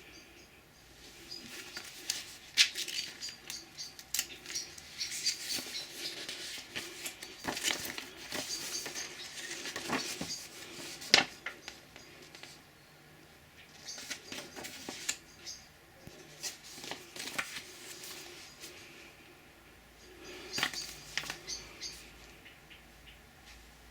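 Unboxing sounds: packaging rustling and parts being handled, with scattered sharp clicks and knocks, in three bouts separated by quieter pauses.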